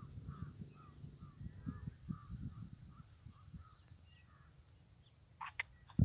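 Birds calling: a run of short repeated calls, about two or three a second, with low thumps underneath. Near the end come two short harsh calls like a crow's caw.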